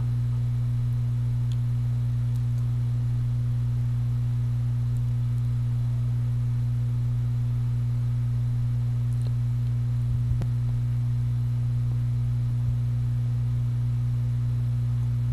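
Steady low electrical hum with a fainter higher overtone, holding one pitch and level throughout, typical of mains hum in the recording chain.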